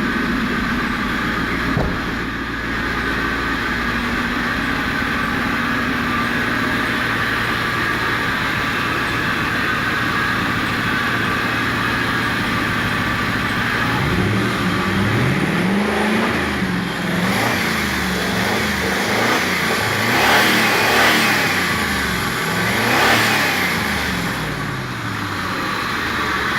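Rebuilt 4.6-litre V8 of a 2000 Ford Mustang GT idling steadily, then revved up and down again and again from about halfway through, with the highest revs near the end.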